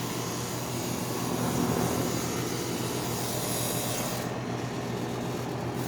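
Lennox Elite air-conditioner condensing unit running steadily just after startup: the condenser fan's airflow with a steady compressor hum. Its fan is turning slower than normal, which is taken for the sign of a dying capacitor.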